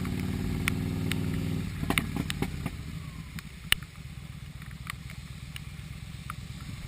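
Yamaha Midnight Star cruiser motorcycle's engine running, its note dropping to a lower, quieter level about two seconds in as the bike slows. Sharp ticks are scattered throughout.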